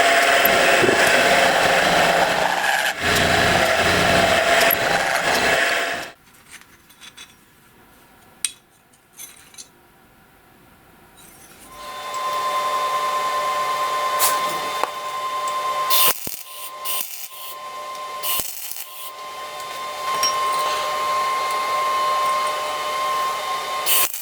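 Electric power tool cutting or grinding metal, with a steady whine, stopping about six seconds in. A few small knocks follow in the quiet. About halfway through, a power tool starts up again with a steady high whine and keeps working.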